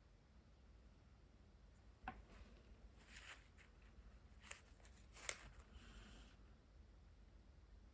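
Faint clicks and taps of water-based brush markers being handled during colouring, the loudest about five seconds in, followed by a brief soft rub of a marker on paper.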